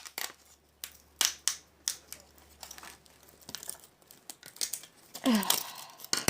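Irregular cracking, snapping and scraping as a phone's metal and plastic internals are pried and cut apart by hand, with a brief falling squeak about five seconds in.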